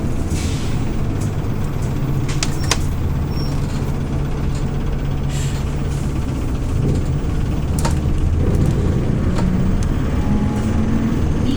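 Hyundai New Super Aero City CNG city bus engine running, heard from inside the passenger cabin: a steady drone that shifts in pitch and gets slightly louder about eight seconds in. A few sharp clicks or rattles come from the cabin.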